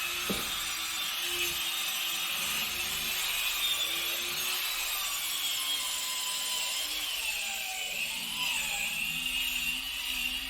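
Angle grinder running steadily against steel, grinding off fasteners on the bus floor; its high whine wavers in pitch as the load changes.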